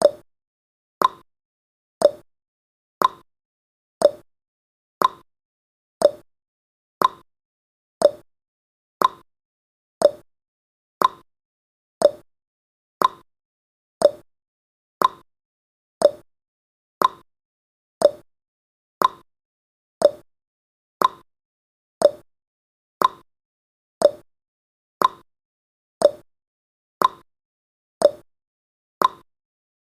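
Countdown timer's ticking sound effect: one short, sharp tick every second, evenly spaced, like a clock marking off the seconds.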